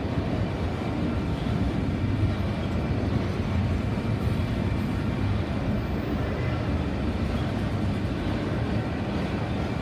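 Enclosed autorack freight cars rolling past at trackside, a steady low rumble of steel wheels on the rails.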